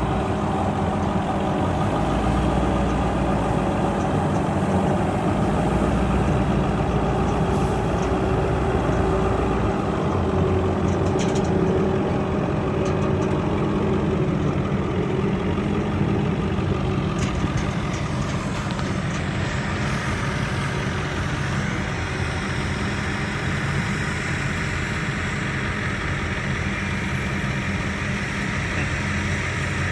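Heavy diesel farm machinery running steadily during corn harvesting for silage, with a continuous engine hum. The sound shifts slightly about a third and two-thirds of the way through.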